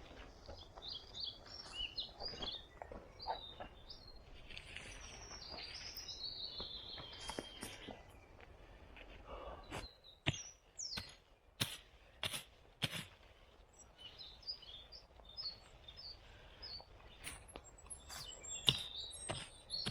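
Small forest birds chirping and calling, with a run of several sharp clicks or snaps about halfway through and a few more near the end.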